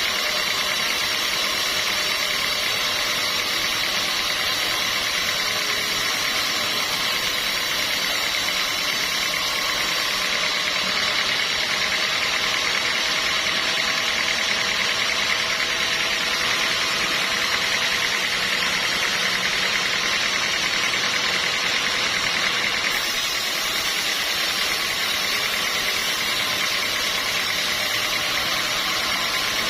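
Sawmill machinery running steadily, a constant mechanical drone with no breaks.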